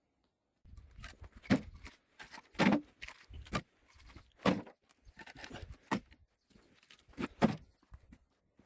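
Pieces of split firewood knocking and clattering against each other as they are handled, in an irregular run of hollow wooden clunks with a few louder ones.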